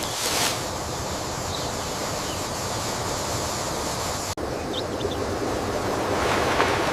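Outdoor nature ambience: a steady rushing noise, cut off sharply for an instant about four seconds in, with a few faint high chirps from a bird soon after.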